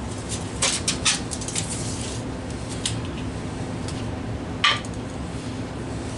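Tools and wood pieces being handled and set down on a workbench while marking out: a quick cluster of small clicks and taps in the first two seconds and one sharper knock just before five seconds, over a steady low hum.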